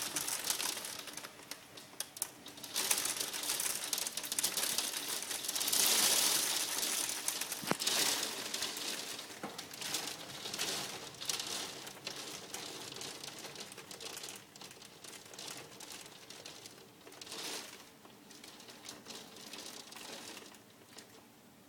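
Hailstones pelting down in a dense patter of hard little clicks that comes in waves, loudest in the first half, then slowly dies away toward the end.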